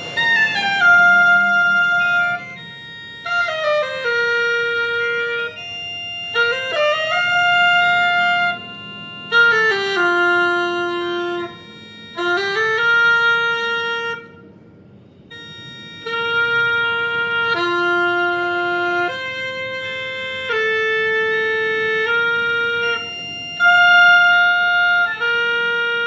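Oboe playing a pitch-matching exercise: a series of held notes with short breaks between them. Several notes begin with a downward slide into pitch.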